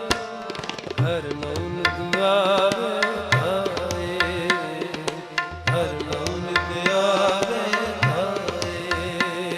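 Sikh devotional kirtan music: tabla playing a steady rhythm with deep bass strokes under a gliding, wavering melody line.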